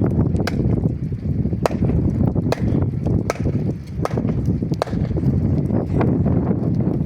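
Wind buffeting the microphone in a rainstorm: a steady low rumble with scattered sharp taps, about one or two a second.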